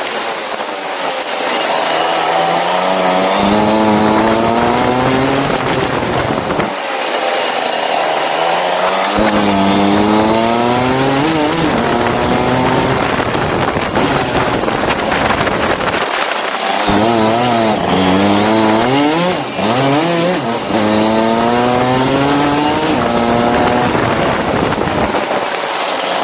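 Go-kart engine revving up through the gears of each straight, its pitch climbing for several seconds, then dropping sharply as the driver lifts for a corner. This happens about four times.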